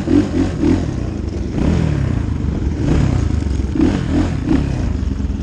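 Dirt bike engine revving and pulling away, its pitch rising and falling several times through the gears, with short throttle blips near the start and again about four seconds in.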